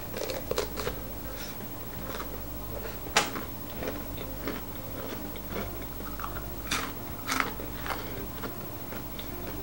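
Close-up biting, crunching and chewing of the end of a wafer ice-cream cone, a run of crackly crunches with the sharpest about three seconds in and two more around seven seconds.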